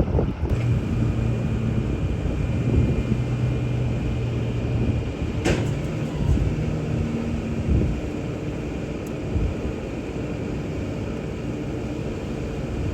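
Vehicle engine idling steadily, a low hum with a faint high whine over it, and one sharp click about five and a half seconds in.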